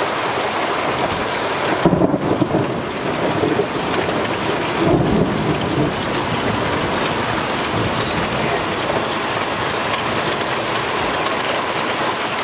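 Heavy rain falling in a steady hiss, with thunder rumbling about two seconds in and again around five seconds in.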